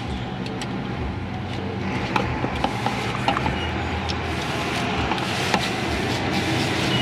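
Hand ratchet clicking in short, irregular runs as a nut is tightened, over a steady low hum.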